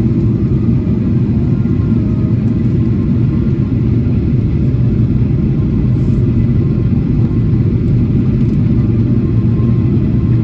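Steady low rumble of a Boeing 777-300ER cabin, the engine and airflow noise heard from a seat inside the aircraft, even and unchanging throughout.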